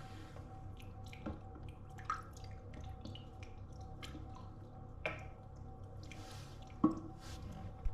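Water dripping in a bathroom: about five single drips at irregular spacing, the loudest about seven seconds in, over a low steady hum.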